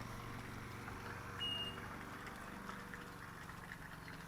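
Steady low hum with a faint hiss, and one short high whistle-like note about a second and a half in.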